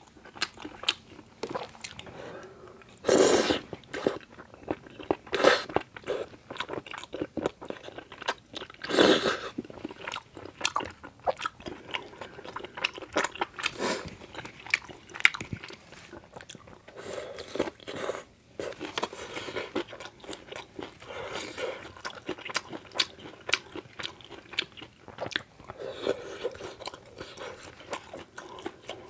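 Close-miked chewing and mouth sounds of someone eating tteokbokki, chewy rice cakes in red sauce with melted cheese: irregular wet clicks and smacks, with louder, longer bursts about three, five and nine seconds in.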